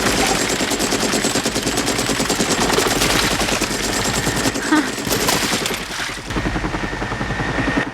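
Sustained rapid automatic gunfire from a film's action soundtrack, a dense unbroken rattle of shots that cuts off near the end.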